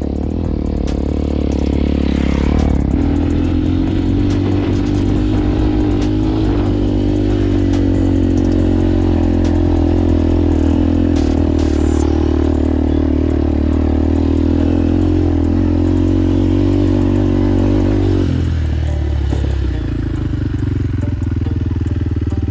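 Motorcycle engine running steadily while riding. Its pitch steps to a new level about three seconds in and again near the end, as with a gear or throttle change.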